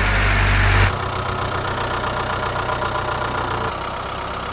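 Mini tractor engine running steadily. Its sound changes abruptly about a second in, the deep hum dropping away and leaving a steadier, lighter rattle.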